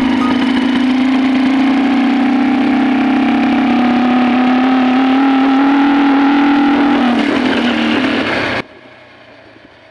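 Motorcycle engine running hard, its pitch rising slowly as it accelerates and then dropping off about seven seconds in; the sound cuts off abruptly over a second later, leaving a much quieter background.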